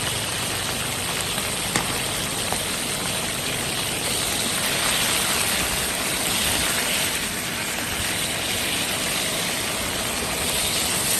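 Green peppers stir-frying in hot oil in a wok, a steady loud sizzle, with one light tick about two seconds in.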